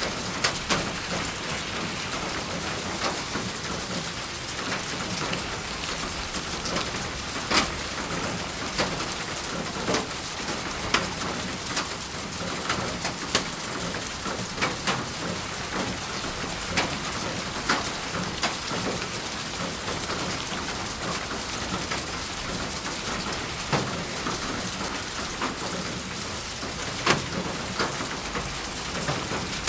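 Steady rain falling, with heavy drops striking a hard surface at irregular intervals, roughly one every second or two.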